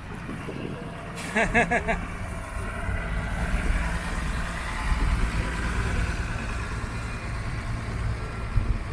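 Low engine rumble of a motor vehicle running and moving past, louder in the middle. A short wavering call, like a voice, sounds about a second and a half in.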